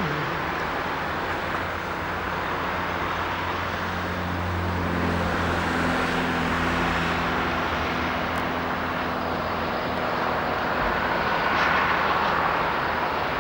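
Diesel train engine running with a steady low drone, swelling a few seconds in, over a wash of mechanical and rail noise.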